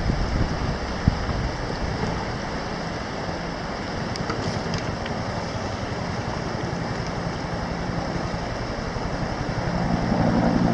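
Rescue helicopter running, its rotor giving a fast, even low pulsing over a steady rush of engine and downwash noise, growing louder near the end.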